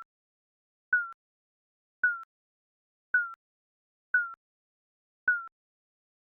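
Digital countdown timer beeping once a second: short, slightly falling beeps, each starting with a click, with silence between them.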